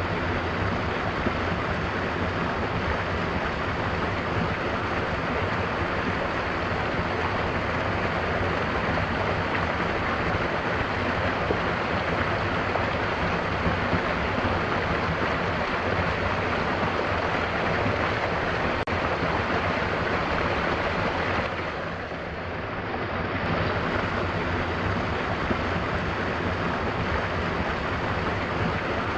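Mountain waterfall: water falling steadily in a dense, even rush, dipping briefly softer for a second or two late on.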